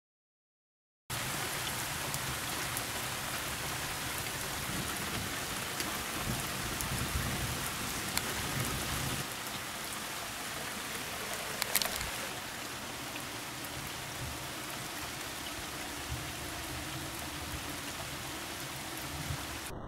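Heavy rain falling steadily. It cuts in after about a second of silence, and there is a single brief sharp crack about halfway through.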